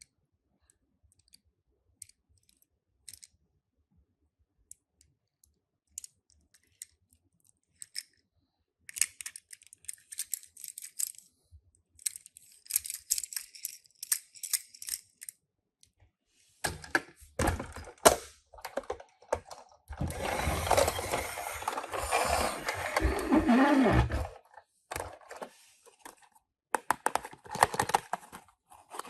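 Handling of toy-car packaging: sparse light clicks, then bursts of rustling from about nine seconds in. From about sixteen to twenty-four seconds comes a louder stretch of rubbing and tearing, followed by more clicks and rustle.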